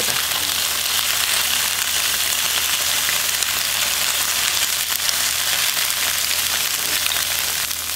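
Cubes of firm tofu frying in cooking oil in a grill pan, a steady sizzle as they brown to golden.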